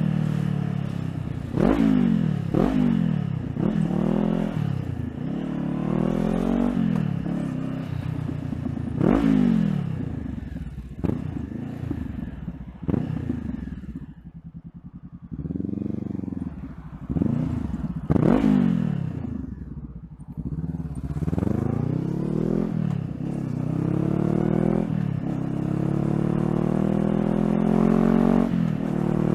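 Honda CBR500R's parallel-twin engine accelerating through the gears, its pitch climbing and then dropping sharply at each upshift, several times in quick succession. It eases off to a low hum about halfway through, then builds revs again through more shifts.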